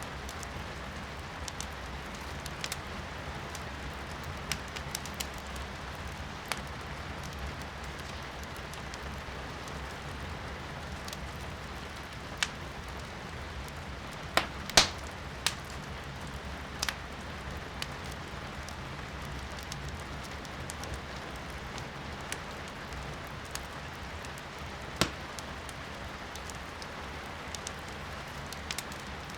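Firewood crackling in a fireplace, sharp irregular pops scattered through, the loudest about halfway, over a steady hiss of rain heard from indoors.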